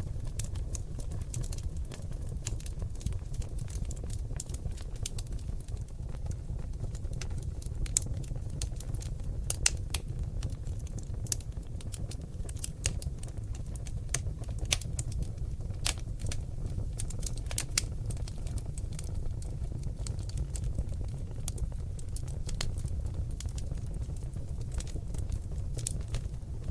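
Seasoned oak logs burning in a fireplace: a steady low rumble of flames with frequent sharp crackles and pops. Several louder pops come around the middle.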